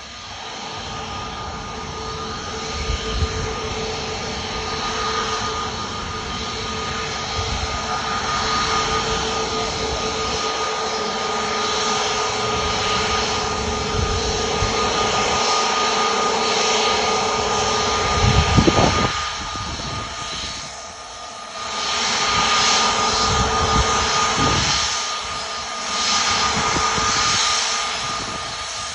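Airbus A320neo airliner's turbofan engines running with a steady whine over a broad rush. The noise swells and dips, and a lower tone fades out about two-thirds of the way through. A few short low bumps come through, the strongest about 19 s in.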